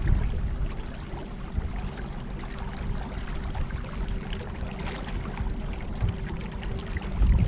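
Water rushing and lapping around a small craft moving on the river, with a thin steady hum throughout. Low wind buffeting on the microphone is heavier at the start and near the end.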